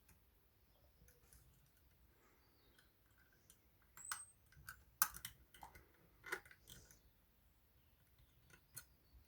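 Faint metallic clicks and scrapes of lock picks working the levers inside a Union 3G110 five-lever lock, with a cluster of sharper clicks about four to seven seconds in and a couple more near the end.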